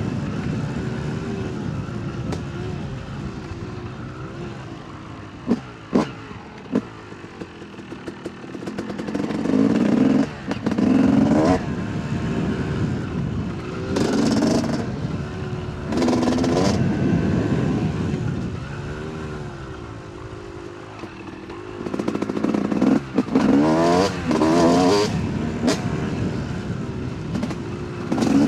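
Yamaha YZ 250 two-stroke dirt bike engine being ridden, revving up and down in repeated throttle bursts, its pitch rising and falling with each one. A few sharp knocks come about six seconds in.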